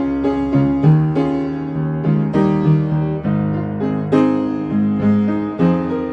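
Piano playing a hymn tune, chords and melody notes struck in a steady, gentle rhythm with no voices.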